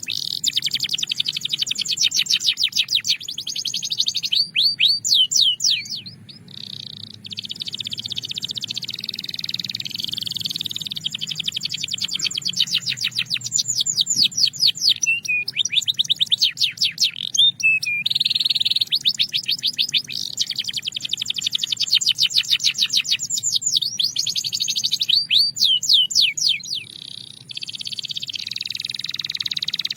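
Canary singing: long runs of fast repeated high notes and rolling trills, with short breaks about six and twenty-seven seconds in.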